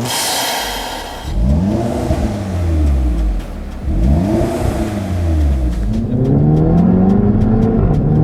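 Turbocharged Audi TT engine breathing through a Blaze Performance Atom Race V.2 aftermarket intake, revved twice, then climbing slowly in pitch under steady acceleration. Music is heard for about the first second.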